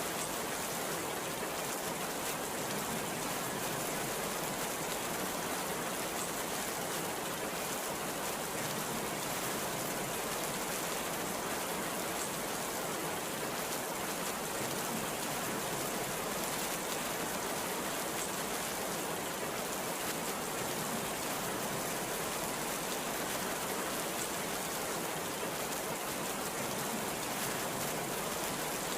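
Heavy rain falling in a steady downpour, an even hiss that does not rise or fall.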